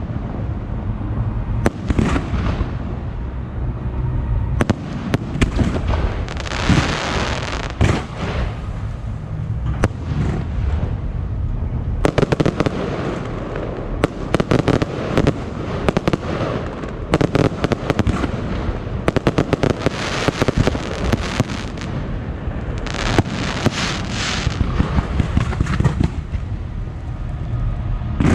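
Fireworks display: a rapid string of sharp bangs and crackling bursts, with a steady low rumble underneath. The bangs come thickest in the middle stretch.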